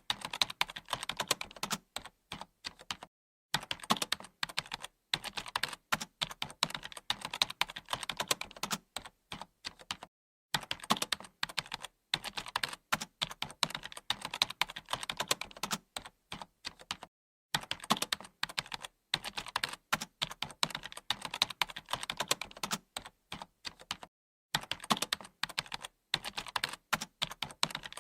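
Fast, continuous typing on a computer keyboard, many keystroke clicks a second, with brief pauses about every seven seconds.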